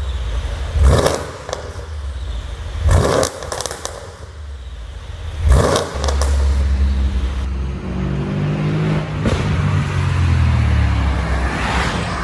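Mercedes-AMG CLS63 (W218) twin-turbo V8 with a pop-and-crackle exhaust tune: three sharp blips, each ending in bangs and crackles, about two seconds apart. After that the engine holds a steady note, and its pitch slowly falls over the last few seconds.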